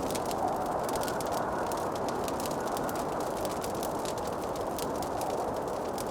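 Wood fire crackling in a fireplace: many small, irregular snaps and pops over a steady low rushing noise.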